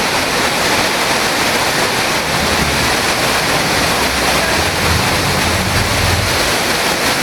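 Waterfall's water crashing down close by, a loud steady rush, with a low rumble that swells for a few seconds in the middle.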